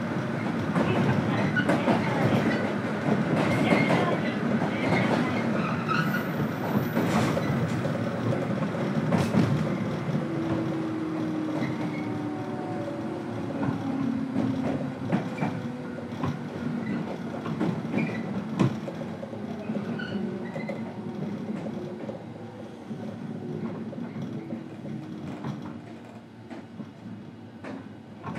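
Inside a JR Kyushu 103 series electric train's motor car, heard on the move: steady running rumble and motor hum with sharp clicks of the wheels over rail joints, growing gradually quieter through the second half.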